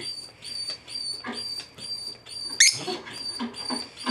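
A dog whining and whimpering: thin high peeps repeating about twice a second, with one sharp rising squeal a little past halfway.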